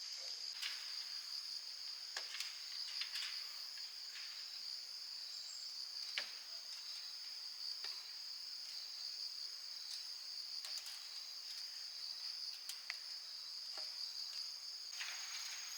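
A steady, high-pitched chorus of insects, crickets or cicadas, trilling without pause, with occasional sharp light clicks and taps scattered through it.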